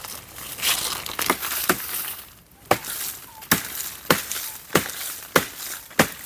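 Crunching and rustling in dry brush, then, from a little past halfway, a steady series of sharp chopping blows into dry wood, about one and a half strokes a second.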